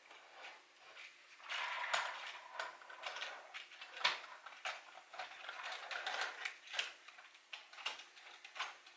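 Plastic clicks and rattles of a battery-operated Lionel Polar Express toy train being handled and its wheels seated on plastic track: irregular sharp clicks with short bursts of rattling.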